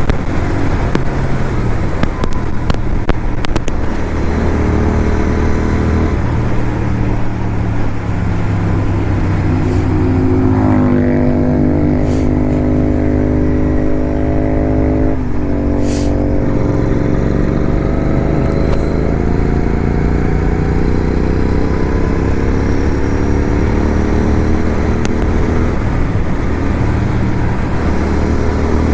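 Motorcycle engine running on the move, with wind and road noise. Its note steps up and down with throttle and gears: it climbs to a higher note about ten seconds in and drops back about five seconds later.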